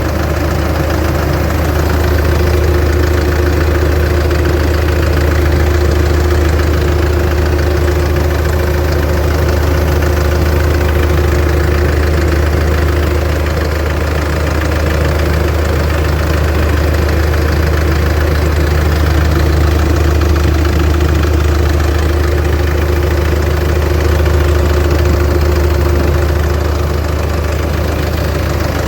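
A 2014 Isuzu MU-X diesel engine idling steadily, with a loud, even low drone that holds the same pitch throughout.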